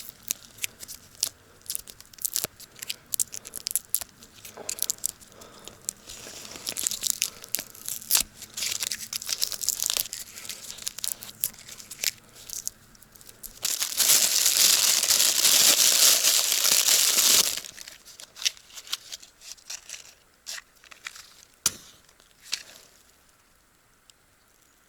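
Footsteps crunching through dry fallen leaves and twigs, irregular and close, with a loud continuous rustle for about four seconds midway; the steps thin out and stop near the end.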